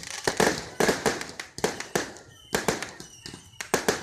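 Fireworks going off in an irregular string of sharp bangs and cracks, several coming in quick succession, each with a short echoing tail.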